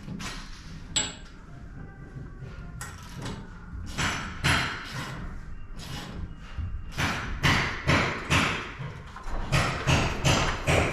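A run of sharp knocks and thuds from hardware being worked on, sparse at first and then coming two or three a second in the second half, with a brief high metallic ping about a second in.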